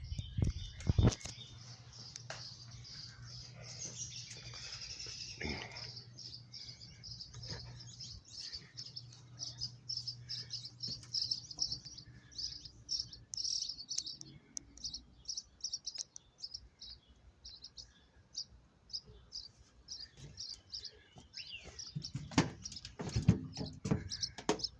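Small bird chirping: a long run of short, high-pitched chirps repeated several times a second, almost continuous at first. A few sharp knocks come about a second in and again near the end, and a faint low hum runs through the first half.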